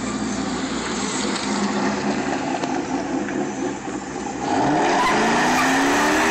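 A car doing a burnout: the engine runs, then revs up sharply about four and a half seconds in and holds high while the tires spin and squeal, loud and steady.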